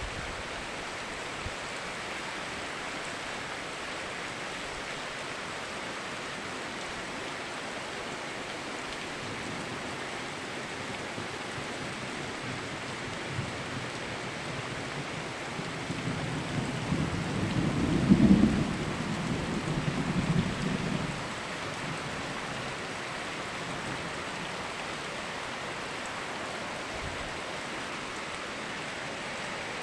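Steady rain, with a roll of thunder about halfway through that builds, peaks and rumbles away over about five seconds.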